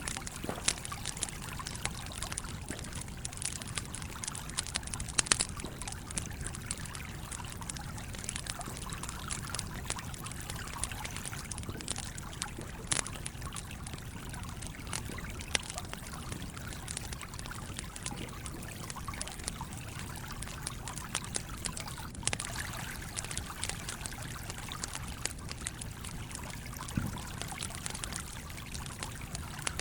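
Campfire crackling with irregular sharp pops, a few of them louder, over the steady trickling flow of a small stream.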